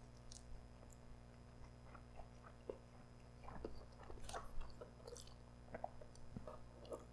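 Faint, close-miked mouth sounds of a man chewing a mouthful of pizza: soft wet chewing with scattered small clicks and smacks, busiest about four to five seconds in.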